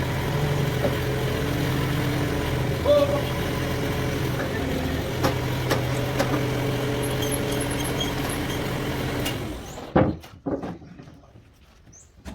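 Sawmill bandsaw machinery running with a steady hum, then shutting down about three-quarters of the way through, followed by a few sharp knocks.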